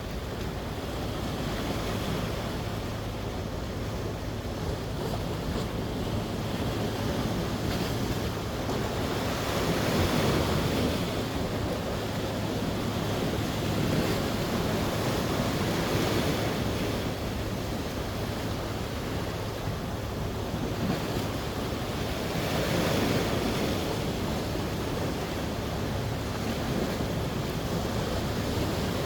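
Sea waves breaking and washing ashore, the surf swelling louder every few seconds, with a steady low rumble of wind on the microphone.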